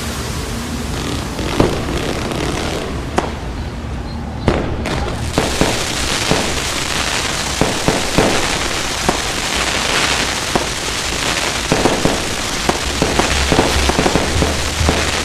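Many fireworks going off at once across a city: a dense, continuous crackle of pops with occasional louder bangs.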